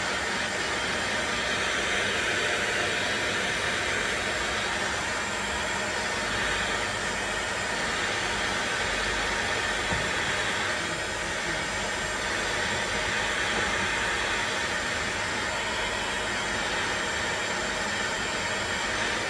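Steady hissing rush of a heating tool blowing heat onto the Mini's metal suspension trumpet to loosen the bonded rubber cone. It holds level without a break.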